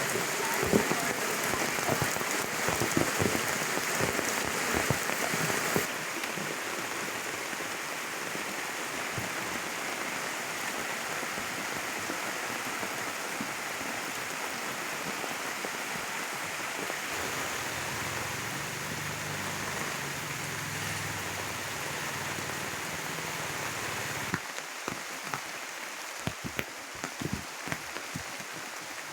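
Heavy rain falling steadily, as a dense hiss of drops, with drips and splashes. The sound shifts abruptly about six seconds in and again near the end, where it turns lighter with scattered separate drops.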